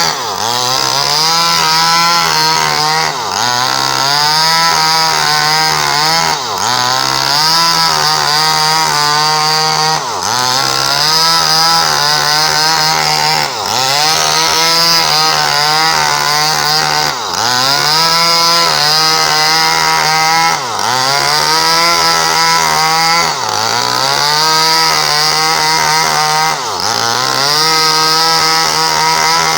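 Small Stihl chainsaw running at high revs while sawing a coconut palm trunk. About every three and a half seconds the engine pitch drops sharply and climbs back as the chain loads and clears in the cut.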